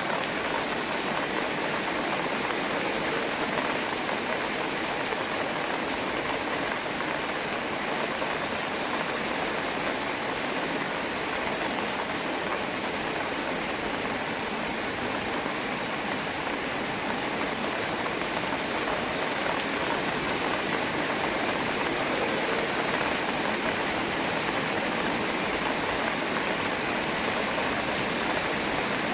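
Steady rain falling, an even, unbroken hiss with no separate drops or events standing out.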